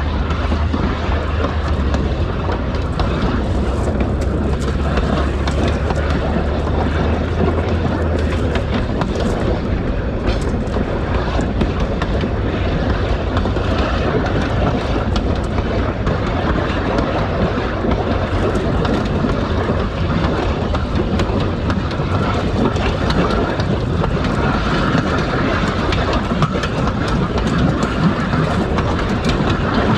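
2000 class diesel railmotor running along the track: steady wheel-on-rail and running noise, with frequent clicks from the wheels over the rails. A low hum under it drops away about eight or nine seconds in.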